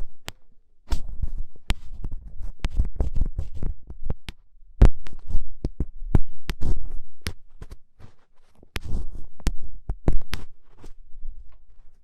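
Ear pick scratching firmly and close to the microphone in ASMR ear cleaning: irregular sharp clicks and scrapes over low, muffled rumbles.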